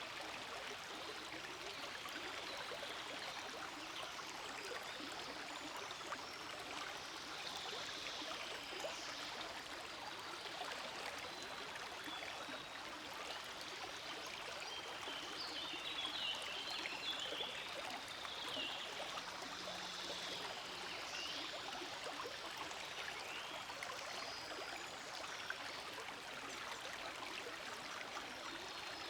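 Small forest stream flowing steadily, a continuous babble of running water, with faint high chirps about halfway through.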